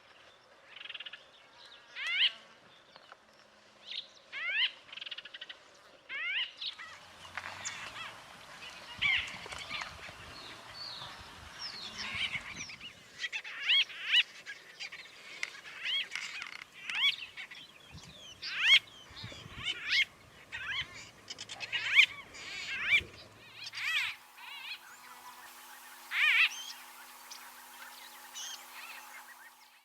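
White-throated bee-eaters calling: short chirps that each slide quickly upward in pitch, coming one or two a second in a busy chorus. After about 24 s the calls nearly stop, leaving a faint steady hum and one last chirp.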